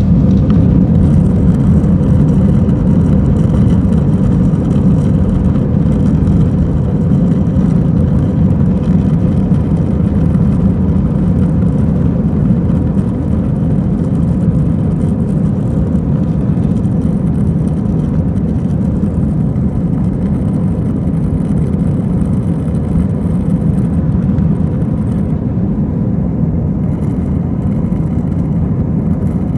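Airbus A320-232 airliner heard from inside the cabin during takeoff. Its IAE V2500 turbofans at high power give a loud, steady rumble with a faint hum, easing slightly about halfway through.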